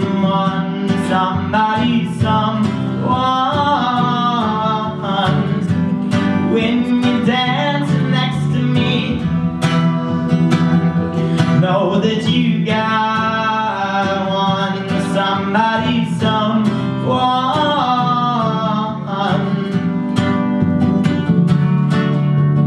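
Live country-style song: steady strummed acoustic guitar with a melody line rising and falling over it every few seconds.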